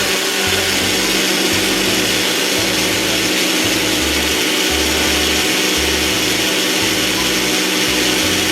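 Countertop blender running steadily at full speed, blending a smoothie.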